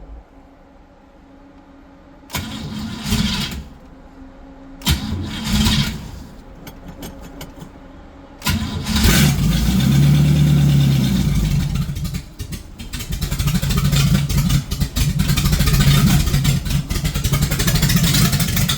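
Car engine that has been sitting unused being started: two short cranks that don't catch, a few ticks, then about eight and a half seconds in it catches and runs, revving up and settling, rising and falling unevenly to the end.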